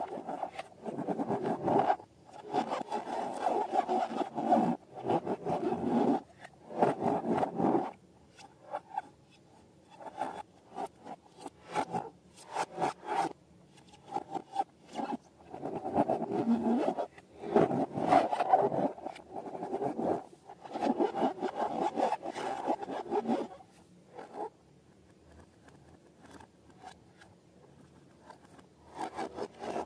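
Slime being worked by hand: irregular bursts of rubbing and scraping, each a second or two long, with a quieter stretch near the end.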